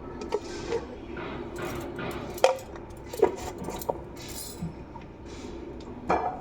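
Kitchen utensils clinking: a spoon knocking against a bowl and dishes several times, with soft rustling between the clinks as ingredients go into the chicken.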